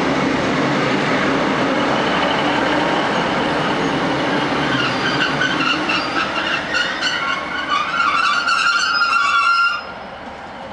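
Class 156 diesel multiple unit rolling into a station and slowing, with a steady rumble of wheels and running gear. From about halfway, a high-pitched brake squeal sets in and holds. The sound drops away suddenly near the end as the train comes to a stop.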